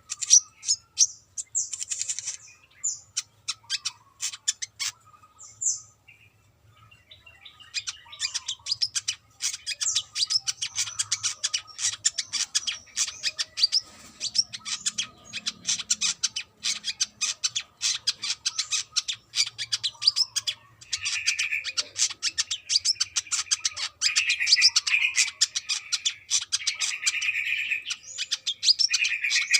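Brown-throated sunbird (kolibri kelapa) singing a fast, continuous high twittering of rapid chirps, pausing briefly a few seconds in. Near the middle, louder buzzy notes join the song.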